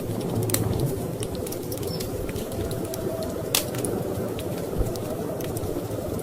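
Wood fire crackling, with irregular sharp pops, the strongest about halfway through, over a steady low rumble of storm wind.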